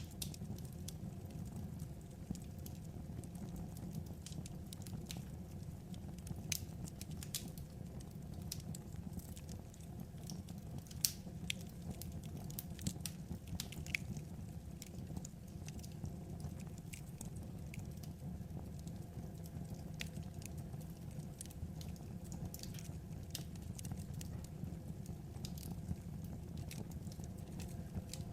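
Wood fire crackling: irregular small pops and snaps over a steady low rumble, with a few sharper pops now and then.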